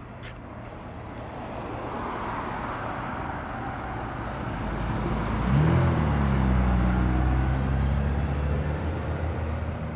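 Car engine noise that grows steadily louder as a car comes in close. About halfway a deeper engine note joins, dips slightly in pitch, then holds steady at low revs.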